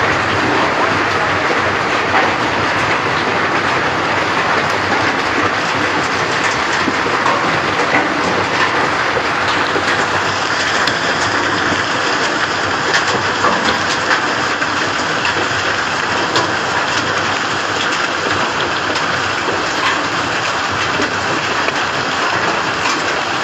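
Heavy rain mixed with hail coming down hard: a loud, steady dense hiss, peppered throughout with small sharp ticks of hailstones striking surfaces.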